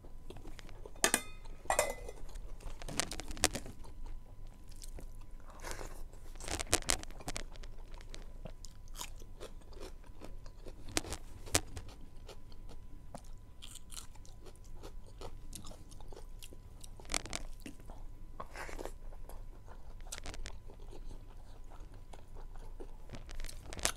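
Close-miked chewing of a mouthful of rice and meat eaten by hand, with irregular crunches and wet mouth clicks.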